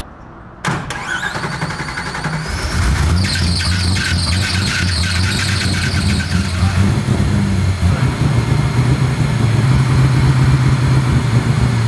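Swapped LS-based V8 in an E36 BMW M3 running steadily at idle. A high-pitched whine rises over the engine about three seconds in and holds for a few seconds.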